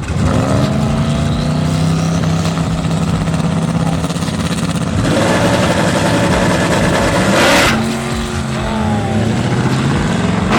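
Drag-racing car engine running loud, holding a steady note for about five seconds. It then turns rougher and noisier, with one sharp burst about three quarters of the way through, before settling back to a steady note.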